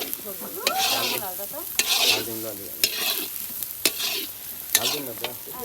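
Food frying and sizzling in a pan while it is stirred and scraped with a ladle, with sharp knocks of the ladle against the pan about once a second.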